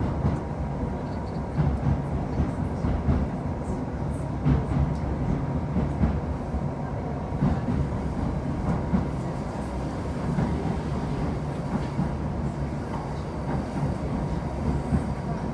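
Passenger train running along the track, heard from aboard: a steady low rumble with irregular knocks as the wheels pass over rail joints.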